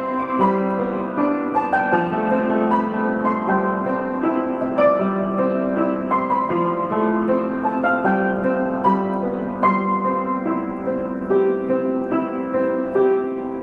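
Piano music: a melody of many separate notes over sustained lower notes.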